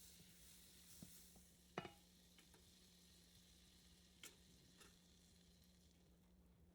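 Faint sizzling of food frying in a pan, with a few light clicks and knocks, the sharpest about two seconds in, over a low steady hum. The sizzle fades away near the end.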